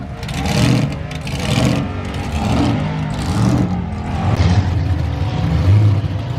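Supercharged street-machine engines revving in repeated blips about once a second, with the sound sitting low and heavy.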